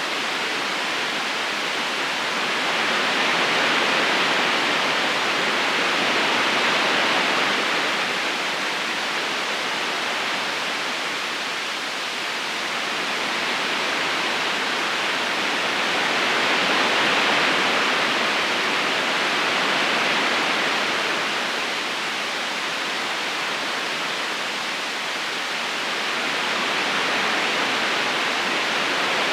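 River current flowing steadily over stones, an even rushing of water that swells and eases gently every few seconds.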